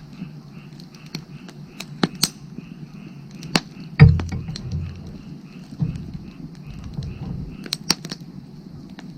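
Wood fire crackling with scattered sharp pops and a louder low thump about four seconds in, with frogs calling faintly behind it in an even rhythm of about four calls a second.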